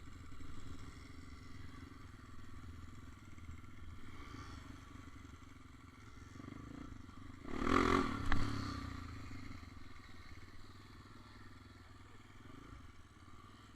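Motorcycle engine running steadily, louder for about a second just before the middle, with a sharp click during that swell.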